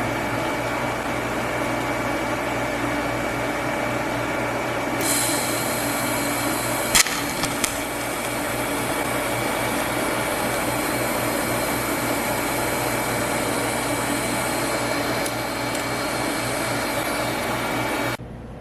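TIG welding arc running steadily on a cast iron handle with a steady buzz and a constant high whine, the tungsten having just been dipped into the filler rod. A sharper hiss joins about five seconds in, there are a couple of clicks a couple of seconds later, and the sound cuts off suddenly near the end.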